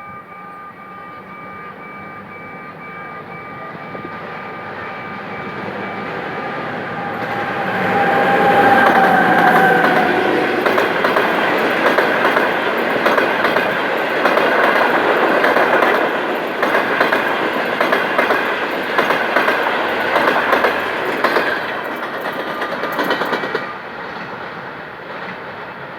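Passenger train hauled by a CNR CKD8G diesel-electric locomotive running through at speed. The sound builds to its loudest about eight to ten seconds in as the locomotive goes by. Then the coaches' wheels clatter over the rail joints with rapid clicks until the sound drops away about 23 seconds in.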